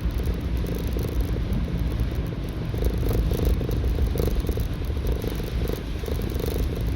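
Motorcycle engine running at low revs: a steady low rumble.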